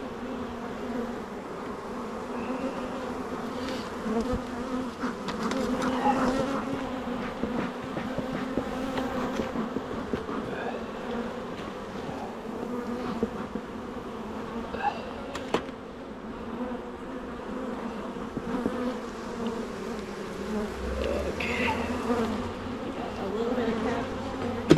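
Swarm of honeybees buzzing around an open hive, a steady hum with a second, higher tone above it, with a few light clicks and knocks scattered through.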